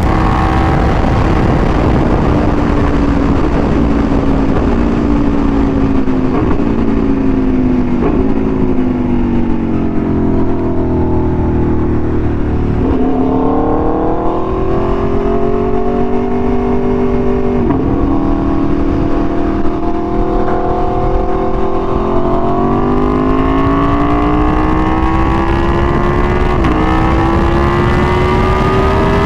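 Aprilia Tuono V4 1100's V4 engine through an SC-Project exhaust, under way. The engine note sinks for about the first twelve seconds as the bike slows, jumping in pitch at a few gear changes. It then holds and climbs again through the last third as the bike accelerates, with another gear change near the end.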